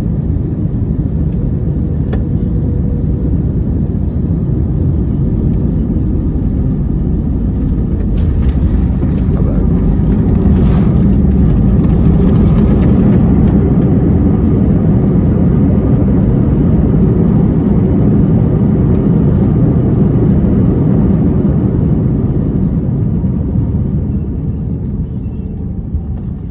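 Steady rumble of an Airbus A321's jet engines and rushing air heard inside the cabin. It swells about ten seconds in and eases off over the last few seconds.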